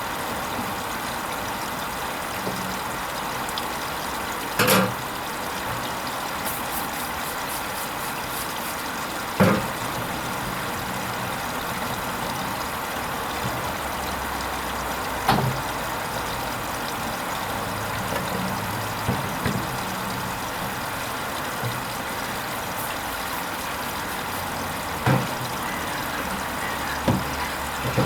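Hoover Vision HVP16 washing machine running its Silks 30 hand-wash cycle: a steady sound of water and drum, broken by a few short knocks spaced several seconds apart.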